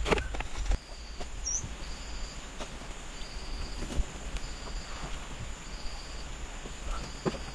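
An insect chirping in short, evenly spaced high trills, about one every second, over a steady faint high whine, with one brief rising chirp about a second and a half in.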